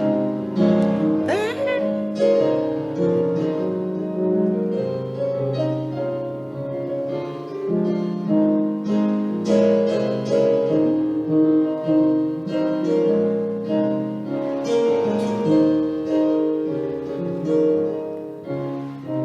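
Piano playing slow, sustained chords as an instrumental introduction to a gospel hymn.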